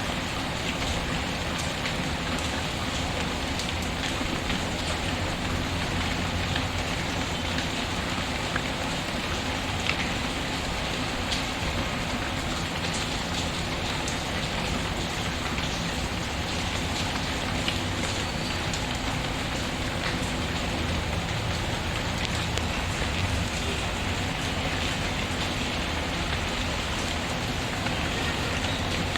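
Steady rain pattering on a surface, mixed with a wood fire crackling in a fireplace, with scattered sharp little pops.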